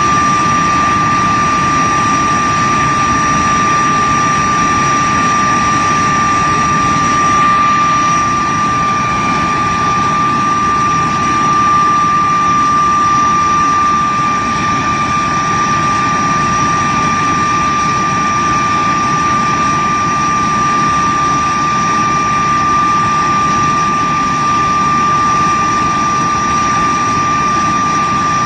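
de Havilland Vampire jet's turbojet engine running steadily on a ground run: a loud, constant high whine over a steady rushing rumble.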